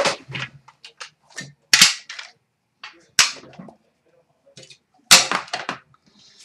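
Hockey card packs being torn open and cards handled: a few sharp crackling tears of the wrappers, the biggest about two, three and five seconds in, with softer rustles between.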